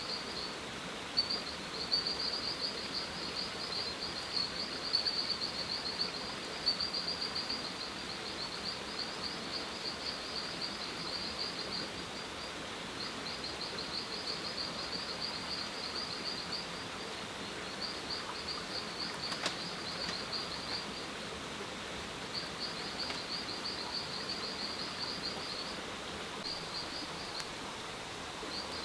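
Jungle ambience: a high, rapid pulsing trill, typical of an insect such as a cricket or katydid, repeating in runs of a few seconds with short pauses, over a steady faint background hiss.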